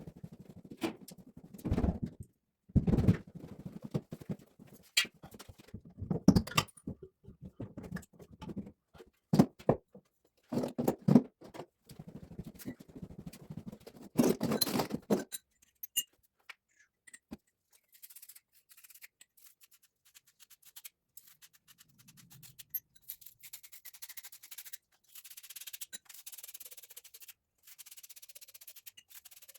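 Irregular knocks, thuds and scrapes of hand work on plumbing for the first half. Then, about 18 seconds in, a quieter, fast scratchy rubbing takes over.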